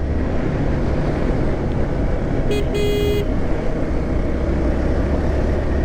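Steady road and wind noise from a motorcycle ride. About halfway through, a vehicle horn gives a short toot and then a longer one of about half a second.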